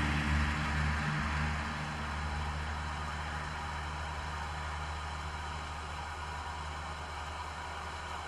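A steady low hum under a faint even hiss, easing slightly over the first couple of seconds.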